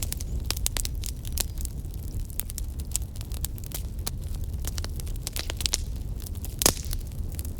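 Fire crackling, with frequent sharp pops over a steady low rumble and one louder pop near the end.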